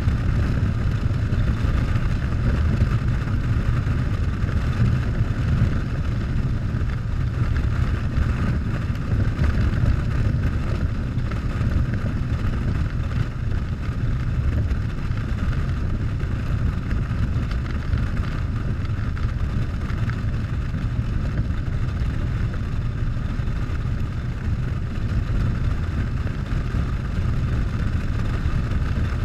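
Harley-Davidson Softail's V-twin engine running steadily on the move, without change in pace.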